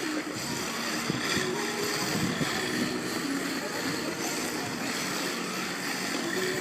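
Electric motors of remote-control drift cars whining, their pitch stepping up and down as the throttle changes, over a steady hiss and background chatter.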